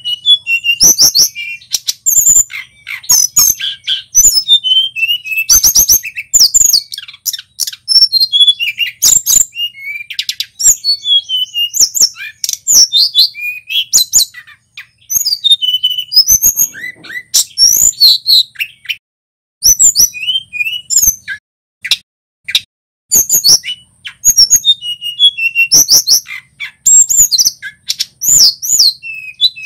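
Male tledekan gunung songbird singing loudly and continuously, a fast run of high chirps, slurred whistles and rattling trills with sharp clicky notes.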